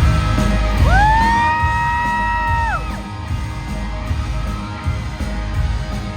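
A rock band playing live at a concert, heard through a phone recording with heavy bass. About a second in, a high-pitched scream from the audience rises, holds for about two seconds, then drops away.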